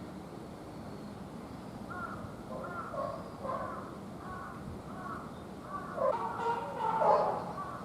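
A run of short, repeated animal calls, about two a second, starting about two seconds in and becoming busier and louder near the end.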